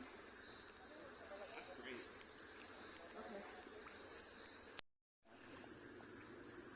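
Night insect chorus of crickets or katydids: a loud, steady high-pitched trill. It cuts out completely for about half a second about five seconds in.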